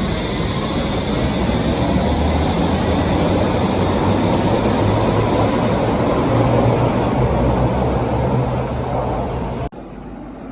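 A Berlin U-Bahn large-profile train running loudly, its low traction-motor hum rising in pitch as it picks up speed. Near the end the sound cuts off suddenly to a much quieter background.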